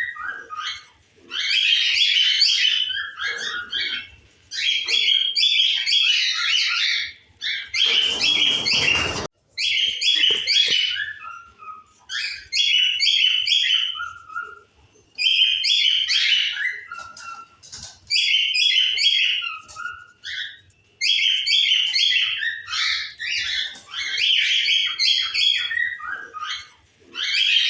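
Small cage birds chirping in repeated bursts of two to three seconds, with short pauses between. About eight seconds in, a burst of hiss lasts over a second and cuts off sharply.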